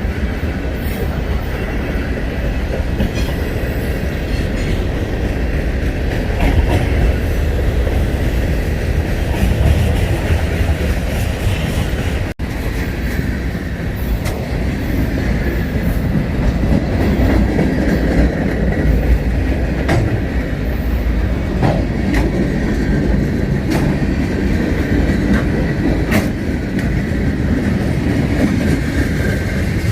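Freight train cars rolling past with a steady rumble and repeated clicking of wheels over rail joints.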